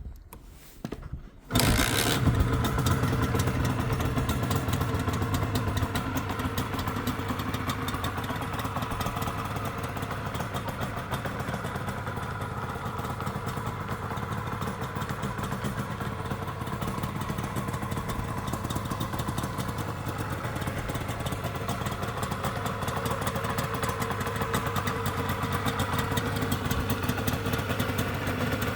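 A 1980 Suzuki RG125E's two-stroke single-cylinder engine starting: a few short knocks, then it catches suddenly about a second and a half in and runs steadily at idle.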